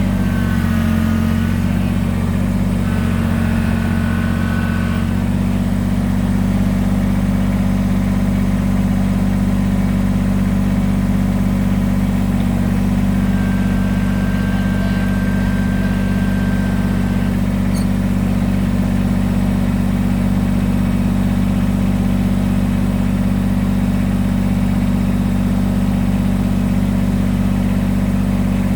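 Kubota BX23S subcompact tractor's three-cylinder diesel engine running steadily at a constant speed.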